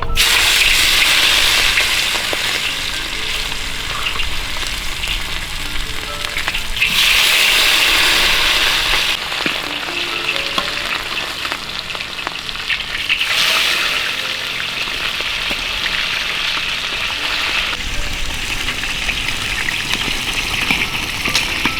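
Food frying in hot oil with a steady sizzle that swells louder twice, about seven and thirteen seconds in.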